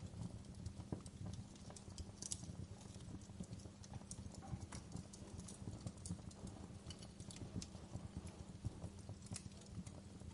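Wood fire burning in a fireplace: a low, steady rumble of flames with frequent irregular crackles and pops from the burning logs.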